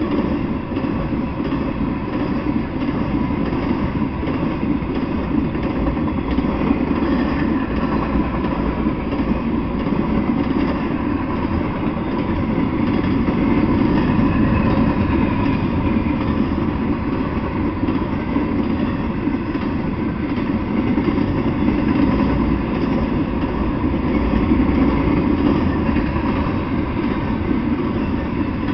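Intermodal freight train cars, carrying truck trailers and stacked containers, rolling past: a steady, unbroken rumble of steel wheels on rail.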